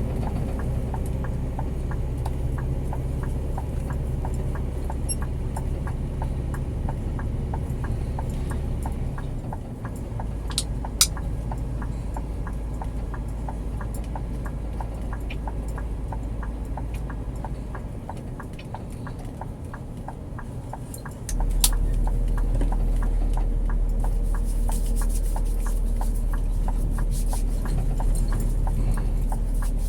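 Scania G410 truck's diesel engine running steadily under way. Its low note steps to a new pitch three times as gears change, and it is louder after the last change. Two sharp clicks stand out.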